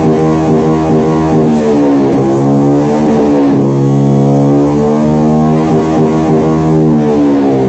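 Engine running through a Pro Liner racing exhaust at a steady raised speed. Its pitch dips and swings back up a few times, at about one and a half, three and a half and six seconds in, as the throttle is worked.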